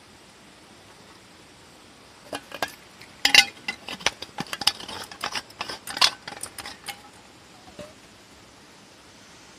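Small hard objects, such as camp gear or cookware, clinking and rattling in a run of quick knocks for about five seconds. The loudest knocks come about three and six seconds in, over a steady hiss of rain.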